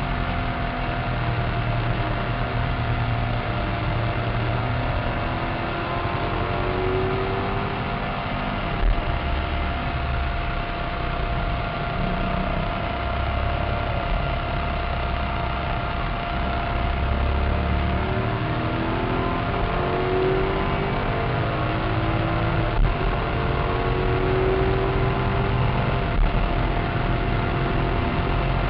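Maserati Cambiocorsa's V8 engine heard from inside the cabin at track speed, its pitch stepping up and down through gear changes, with a few brief louder peaks. A constant high tone runs underneath.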